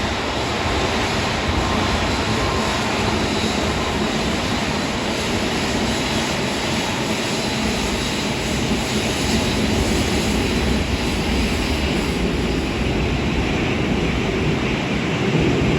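Airbus A380 jet engines running at low taxi power: a steady rush with a faint high whine, swelling slightly near the end.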